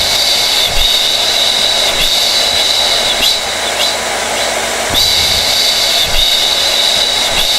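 Hair dryer running steadily: a constant rush of air with a high-pitched whine.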